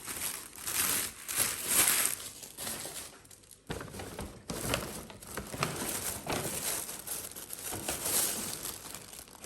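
Packaging being handled and crumpled: irregular crinkling and rustling, with a short lull a little over three seconds in.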